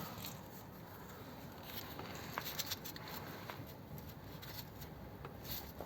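Faint background with a few light clicks and taps scattered through it.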